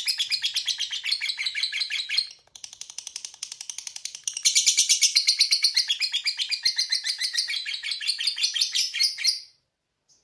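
Lovebird giving a long 'ngekek' song: a fast, shrill chattering trill of about ten chirps a second, with a short break about two seconds in. It stops abruptly shortly before the end, leaving only a few faint chirps.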